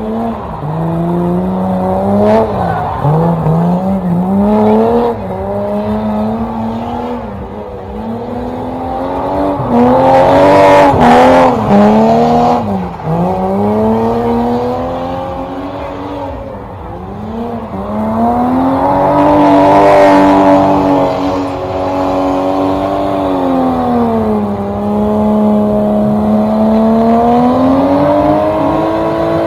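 Car engine revved up and down over and over, with short rises and falls about every two seconds at first. It is then held high and loud for a few seconds in the middle before dropping and climbing again near the end.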